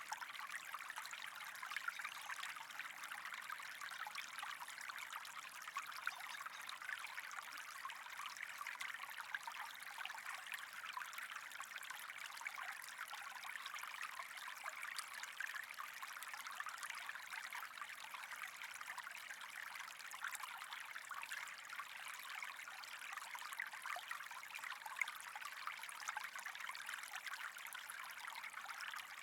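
Running water trickling steadily, a continuous babble of many small splashes with no pause or change.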